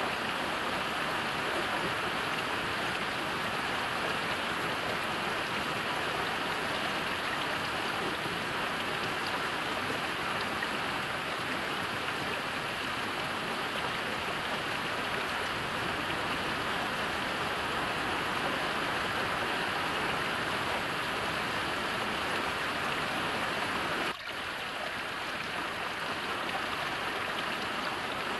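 Heavy rain falling steadily, a dense, even hiss of drops, with a momentary drop in level near the end.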